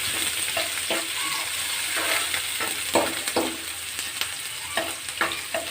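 Sliced onions and green chillies sizzling in hot oil in a pan, frying towards brown. Uneven stirring strokes scrape the pan about every half second.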